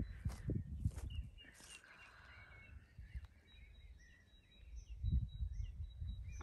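Faint birdsong: scattered short chirping calls. A low rumble on the microphone fills the first second and comes back near the end.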